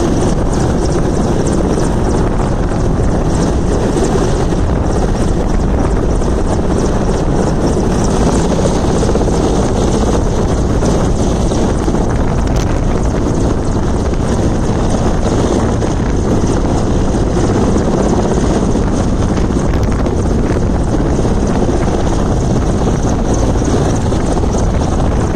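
Military helicopter running steadily, a loud unbroken rotor and engine noise.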